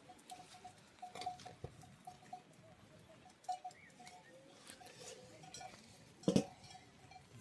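Occasional light knocks and clinks, the loudest about six seconds in, over a faint chirping call repeating several times a second.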